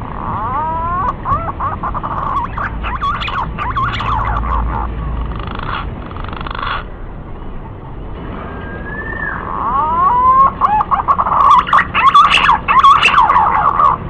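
Green pigeon (Treron) song: strings of whistled notes that glide up and down in pitch. It comes in two bouts, the second starting about halfway through and louder.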